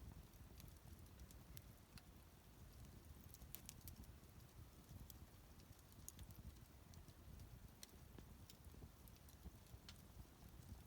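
Wood bonfire crackling faintly: scattered sharp snaps and pops at irregular intervals over a low steady rumble.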